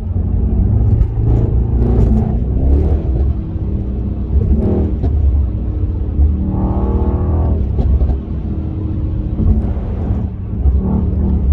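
Mercedes-AMG E63's V8 exhaust running with a deep rumble and blips of the throttle, with sharp pops and bangs from the exhaust scattered through, and one longer rev rising and falling about seven seconds in.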